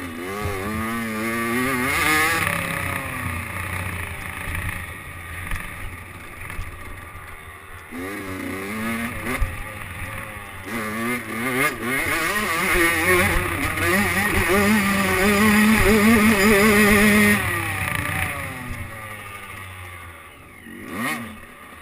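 Motocross dirt bike engine revving up through the gears, its pitch climbing and dropping again and again. It is held high for a few seconds past the middle, then eases off, with a short rise and fall in pitch near the end.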